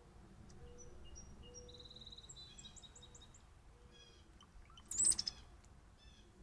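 Wild birds calling: a run of short high chirps and whistled notes over repeated low short notes, with one loud harsh call close by about five seconds in.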